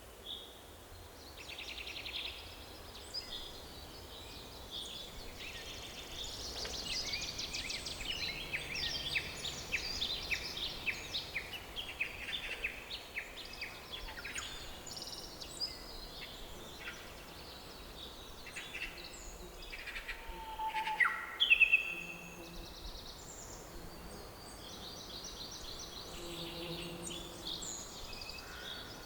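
Several songbirds singing and calling, with rapid trills and chirps overlapping throughout. The loudest is a call that sweeps down in pitch about three-quarters of the way in. A faint low steady rumble of background noise sits underneath.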